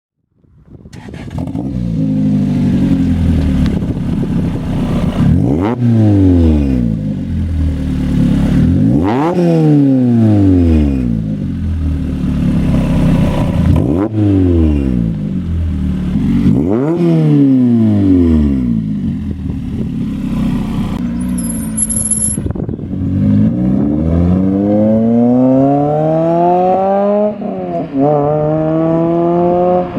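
Lotus Exige S2's 1.8-litre four-cylinder engine through a Janspeed Stage 2 exhaust, revving hard. The pitch jumps sharply and then falls away slowly, four times. Then it climbs steadily through the revs, with a short drop near the end like a gear change before it climbs again.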